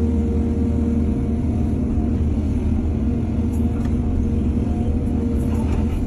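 Heavy diesel engine of earthmoving machinery running steadily at an even speed, with a few faint knocks in the second half.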